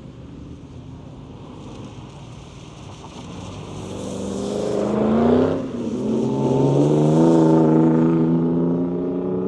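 A car engine under hard acceleration, its pitch and loudness climbing, with a brief drop at a gear change about five and a half seconds in, then climbing again through the next gear.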